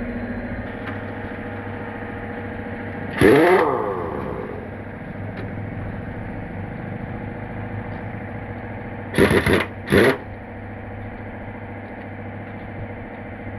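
A machine runs with a steady hum. It is broken by loud, short hissing bursts: one about three seconds in, and two in quick succession around nine to ten seconds in.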